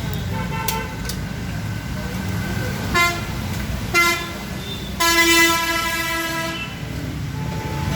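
Horn tooting: two short toots about a second apart, then a longer, louder toot lasting about a second and a half, over a steady low rumble.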